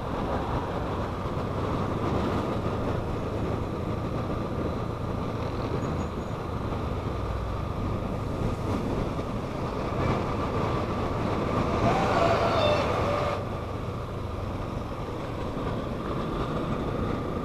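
A motorcycle running at a steady cruising speed, its engine hum under steady wind and road noise at the rider's microphone.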